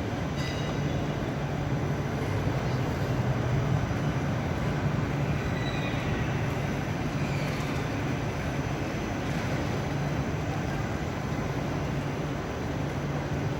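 Electric rail vehicles running through a station: a steady low hum over rolling noise, with a few faint high-pitched squeals coming and going.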